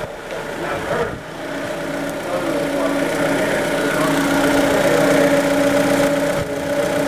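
2019 Jeep Compass 2.4-litre four-cylinder engine idling with a steady hum that settles about two seconds in.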